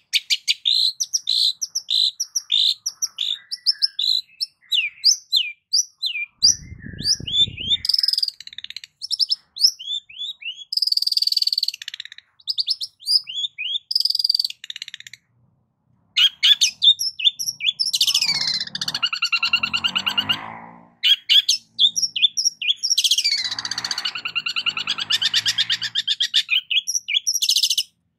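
Long-tailed shrike (cendet) singing a fast, varied song of rapid chirps and whistled notes, with mimicked phrases. In the second half there are two longer harsh, rasping stretches.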